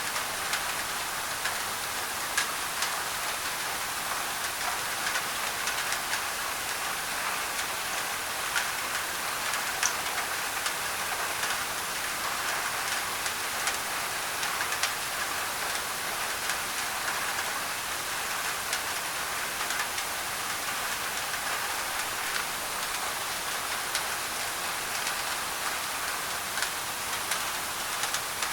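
Steady rain drumming on a thin tin roof, with individual drops ticking sharply over a constant hiss of mixed-in white noise.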